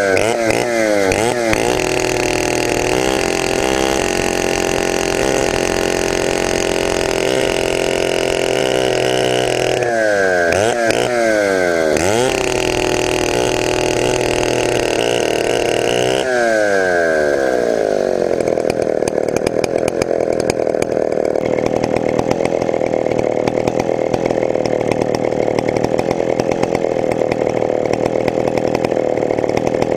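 Chinese-made copy of a Stihl 070 chainsaw, a large two-stroke, running on its first startup. The engine revs up and down in pitch a few times in the first half, then drops at about two-thirds of the way through and holds a steady lower speed.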